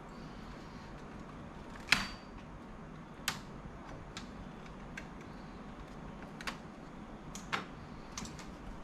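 Small sharp clicks and taps at irregular intervals, about eight in all, the loudest about two seconds in: laptop parts and connectors being handled and worked loose during a ThinkPad motherboard removal.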